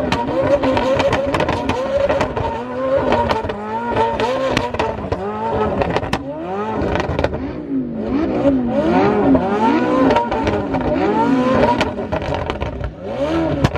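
Several high-performance car engines revving again and again, overlapping, their pitch rising and falling in quick arcs. Sharp cracks are scattered through the first half.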